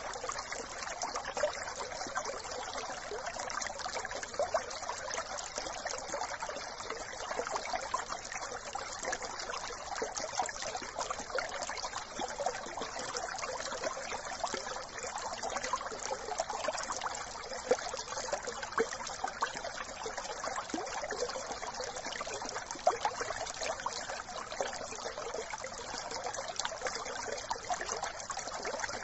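A brook running steadily, with many small splashes.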